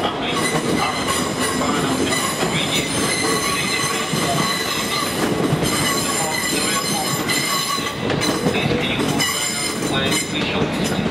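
A train running over the rails with its wheels squealing: several high, steady tones that come and go over the rolling noise.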